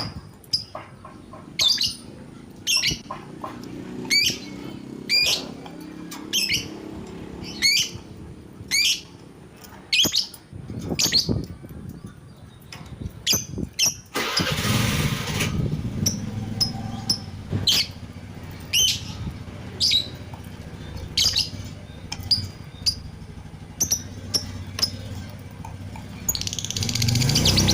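Lovebird calling with sharp, high chirps about once a second, turning into a louder, faster chatter near the end. A motor vehicle rumbles in the background through the second half.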